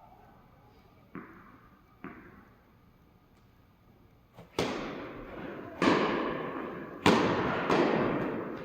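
Tennis balls struck by rackets and bouncing on the court in a doubles point, each hit a sharp pop with a long echo. Two faint bounces come first, then about halfway through a run of five loud hits and bounces, roughly a second apart.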